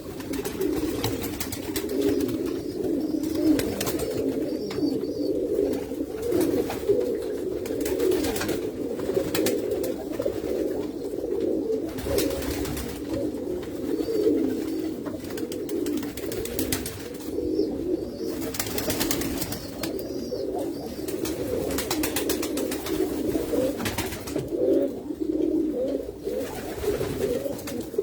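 Many domestic fancy pigeons cooing at once, a continuous overlapping low chorus, with occasional short sharp noises among them.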